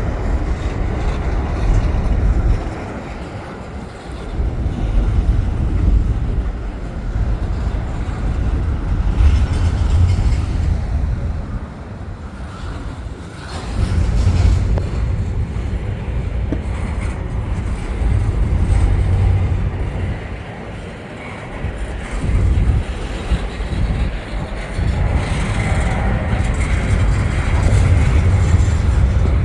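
CN double-stack container freight train rolling slowly past: a steady low rumble of the wagons on the rails that swells and dips several times.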